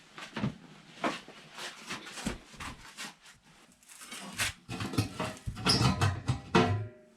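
A run of irregular knocks and clattering, growing busier and louder over the last few seconds.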